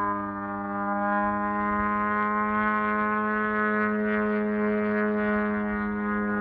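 A 125cc engine running at high revs with a steady, buzzing tone. The pitch climbs a little over the first couple of seconds, then holds.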